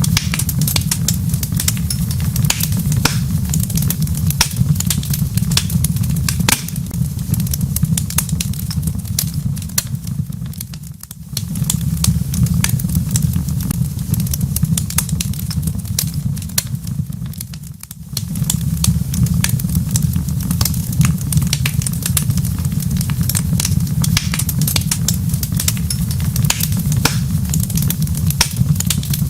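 Wood fire crackling in a fireplace: dense, irregular sharp pops and snaps over a steady low rumble. The rumble dips briefly twice.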